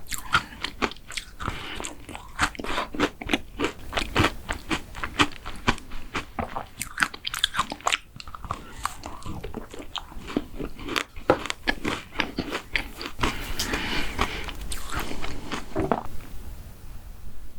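Close-miked eating of a mint chocolate dessert: rapid crisp crunching with sharp crackles as the chocolate breaks, mixed with wetter chewing. It softens near the end.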